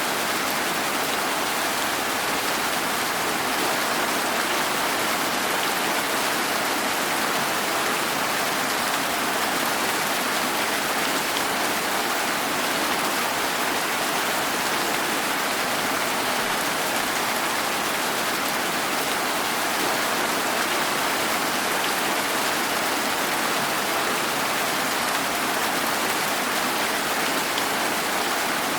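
Steady rain falling, a constant even hiss that neither builds nor eases.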